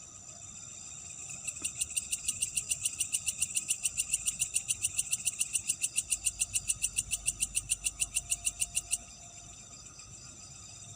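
Night insects chirring in a steady high-pitched chorus. About a second and a half in, one insect starts a loud, rapid pulsed call of about seven chirps a second, which stops abruptly near the end.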